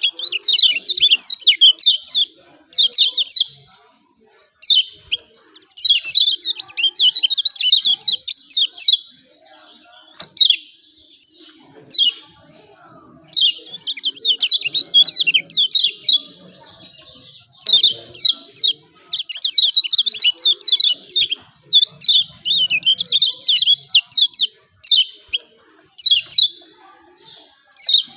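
Kecial kuning (yellow white-eye) giving its rapid 'ciak ciak' chattering call: fast runs of high, sharp notes in bouts of one to three seconds, with short pauses between them.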